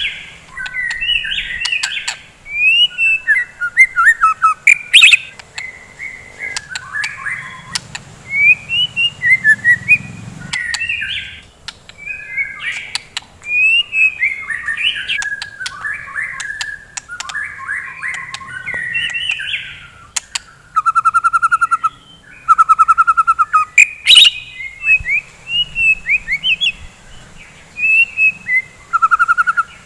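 White-rumped shama (murai batu) singing a loud, varied song of quick whistled phrases mixed with sharp clicks. Fast rattling trills come in about two-thirds of the way through and again near the end.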